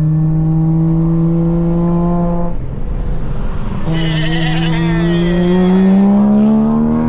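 BMW M3's twin-turbo inline-six through a single-midpipe exhaust, pulling under throttle: the engine note climbs slowly, drops out for about a second some two and a half seconds in, then climbs again more steeply, loudest near the end.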